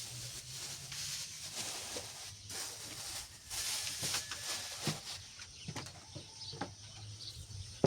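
Birds calling, with scattered light clicks and knocks over a steady hiss.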